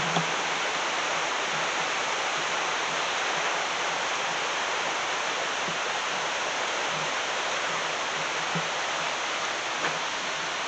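River rapids: a steady, unbroken rush of white water.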